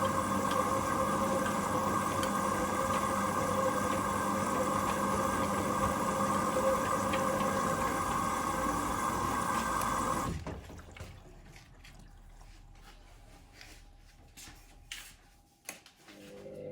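Hoover Link washing machine in its main wash: the drum motor hums steadily as the drum turns with water sloshing inside. About ten seconds in the motor stops for the pause between tumbles, leaving only faint clicks and sloshing, and it starts turning again near the end.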